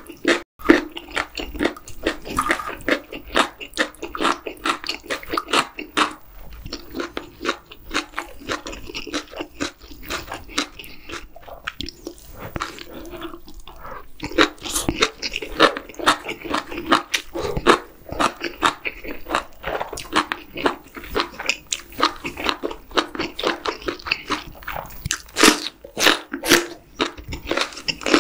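Close-miked chewing of spicy stir-fried webfoot octopus (jukkumi bokkeum): many quick, wet mouth clicks in a dense run, with a short pause about halfway through.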